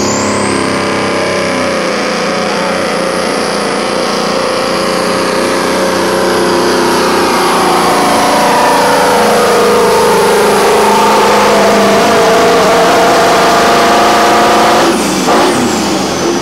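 Super stock semi truck's turbocharged diesel engine running flat out under load as it drags the weight-transfer sled, with a high turbo whistle over the engine. The engine note sags lower as the sled's weight builds, then changes abruptly near the end as the power comes off.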